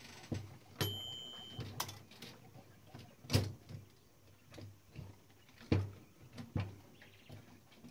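Irregular sharp metallic clicks and knocks of tools and parts being worked inside a Klein Adler 2 portable typewriter during disassembly, with a brief high-pitched tone about a second in.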